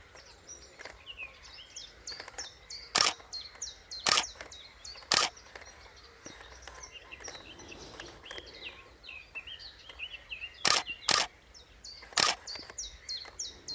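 Common chiffchaff singing, a run of short repeated high notes. Six sharp camera shutter clicks cut across it, three about a second apart near the start and three more near the end.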